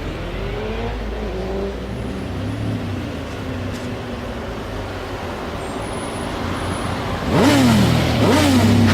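Lamborghini Diablo V12 engine running through its exhaust, first at a low, steady rumble. Near the end come two quick throttle blips about a second apart, each revving up and falling back.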